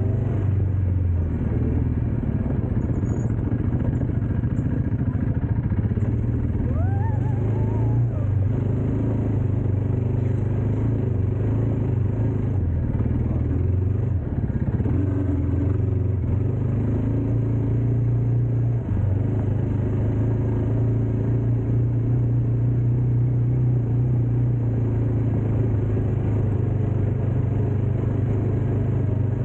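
Dirt bike engine running at a steady low pitch through the ride, its engine speed shifting slightly up and down a few times.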